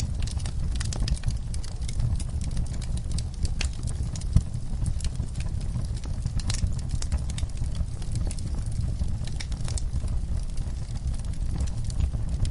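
Wood fire burning in a fireplace: irregular crackles and pops scattered over a steady low rumble of the flames.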